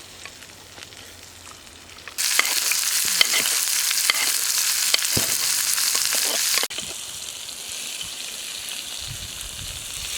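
Steak sizzling on a heated stone: a loud hiss with crackles starts about two seconds in, then drops suddenly to a quieter sizzle about two-thirds of the way through.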